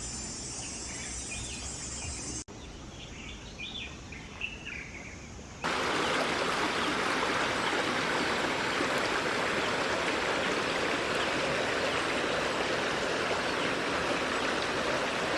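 Birds chirping faintly over soft outdoor background, then about five and a half seconds in, a sudden cut to the steady, loud rush of stream water that continues to the end.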